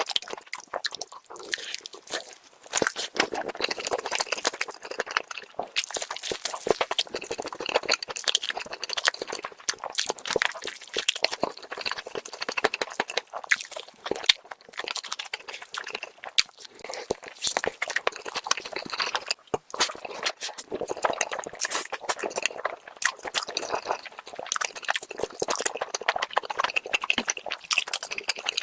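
Close-miked chewing of spicy chicken leg meat: wet, sticky mouth sounds with many small, irregular clicks and crunches, continuing without pause.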